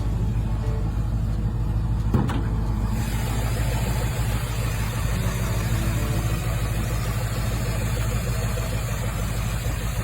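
Car engine idling steadily, with a single short click about two seconds in.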